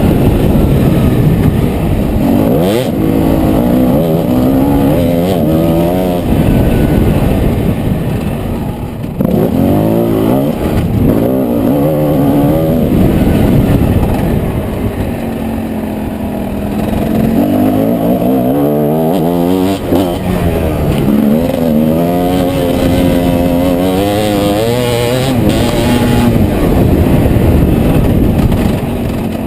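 Motocross bike engine revving up and down again and again as it is ridden round a dirt track, the pitch rising under throttle and dropping off between pulls.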